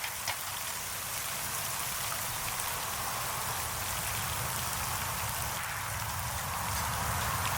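Steady rain falling, an even hiss flecked with small drop ticks.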